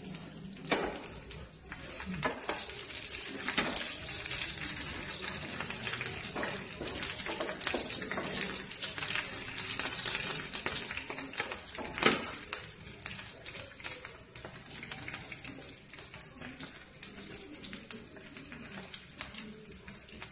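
Green chillies, crushed garlic and mustard seeds sizzling in hot oil in a nonstick frying pan, with a steady hiss. The wooden spatula stirring them knocks against the pan now and then, most sharply about a second in and about twelve seconds in.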